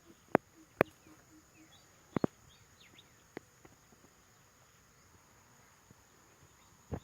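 Steady high-pitched drone of insects, crossed by six sharp knocks or clicks: two in the first second, a quick pair a little after two seconds, one more in the middle and one at the end. Faint short bird chirps come in the middle.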